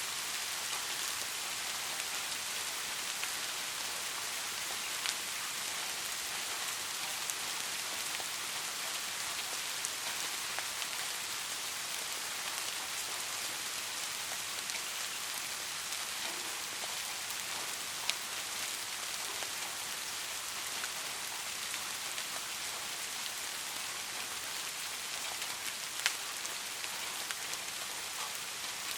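Steady rain falling, an even hiss with scattered drop ticks, one sharper tick about 18 seconds in and another near the end.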